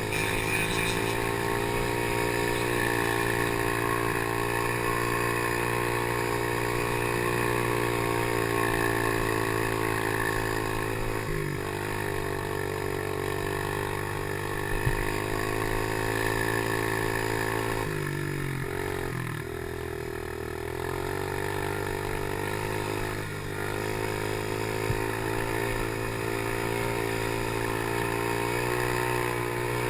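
Small motorcycle engine running steadily under way. Its pitch dips briefly twice as the throttle is eased, most noticeably about two-thirds of the way through, then picks up again.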